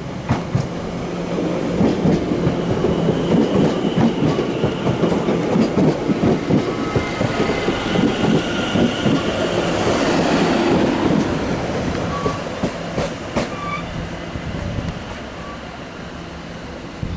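London Overground class 710 electric multiple unit running past at the platform. Its wheels clatter rhythmically over the track, with a few high steady tones above. The sound builds over the first couple of seconds, stays loudest for the middle stretch as the carriages go by, then fades.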